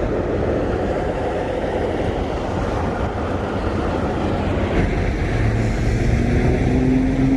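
Semi-truck driving, with steady road and engine noise heard from inside the cab. About five seconds in, a low steady engine drone comes up under the road noise.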